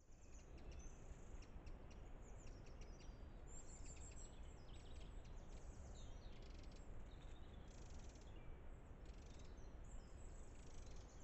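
Faint woodland birdsong: small birds chirping and trilling over and over, above a steady low rumble.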